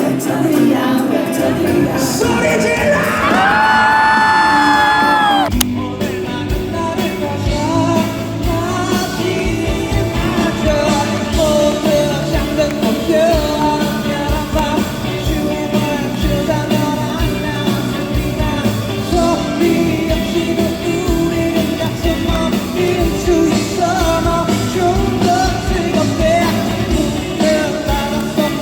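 Live concert music with a lead singer, amplified through a festival PA. A long held sung note cuts off suddenly about five seconds in, and another song with a steady beat and singing takes over.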